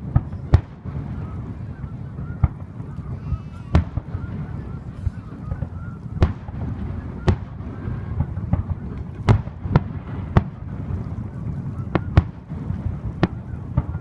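Aerial fireworks bursting overhead: about a dozen sharp booms at irregular intervals, a few in quick pairs, over a continuous low rumble.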